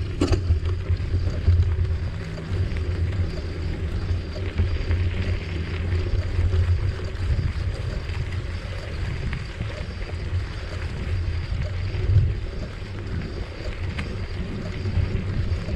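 Wind rumbling over the microphone along with the hum of bicycle tyres rolling along a trail while riding, with a brief louder bump about twelve seconds in.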